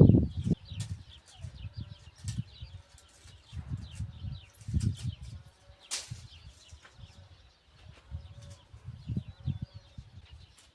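Small birds chirping again and again, over irregular low thuds and one sharp click about six seconds in.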